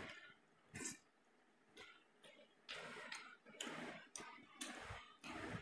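Faint mouth sounds of a person eating rice and stinging catfish by hand: a string of short, soft wet smacks and clicks from chewing and the lips.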